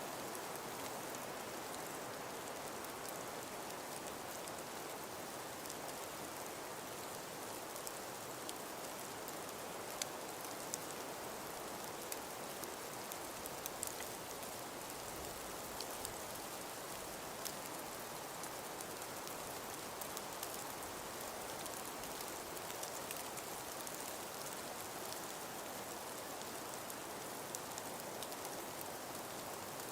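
Snowfall in wind: a steady soft hiss with scattered faint ticks of flakes landing.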